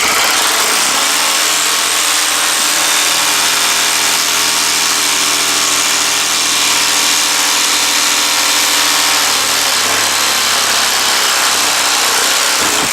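Cordless DeWalt power saw running steadily as it cuts through a trim strip, stopping near the end.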